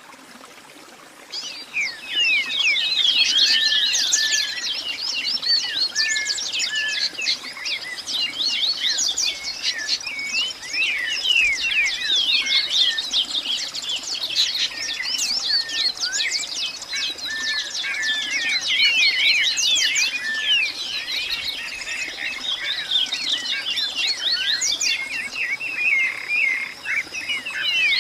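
Many birds chirping and singing at once in a dense, continuous chorus of quick overlapping calls, starting suddenly about a second and a half in, with a thin steady high tone held underneath.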